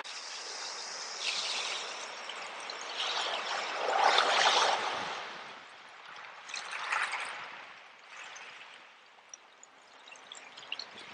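Sea waves washing in, several swells of rushing water. The loudest comes about four seconds in, and it eases off to a quieter lull near the end.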